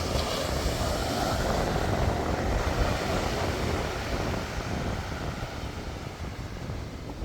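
A wave breaking on the beach: a sudden rush of surf that swells over the first few seconds, then slowly washes away.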